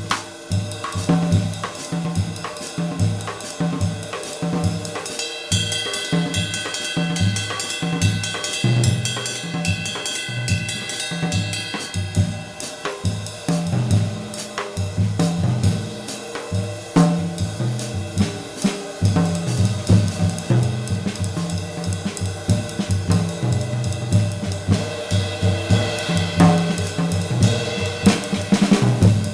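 Drum kit played in a steady groove, with a 20-inch medium-weight B20 bronze sizzle ride cymbal washing over kick and snare. The cymbal's ringing builds up and holds about five seconds in and again near the end.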